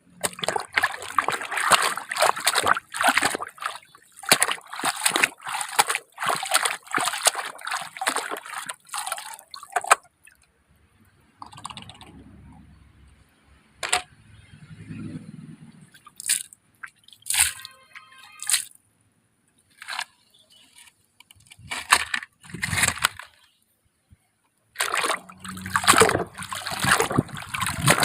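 Water sloshing and splashing in irregular bursts as muddy toy vehicles are rinsed in it by hand, broken by a few short silent gaps.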